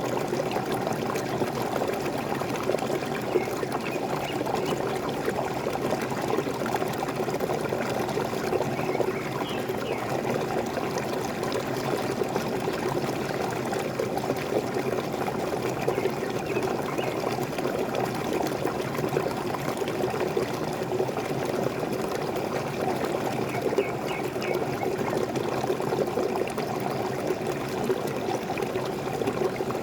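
Waterfall splashing and pouring in a steady, even rush, with a few faint bird chirps now and then.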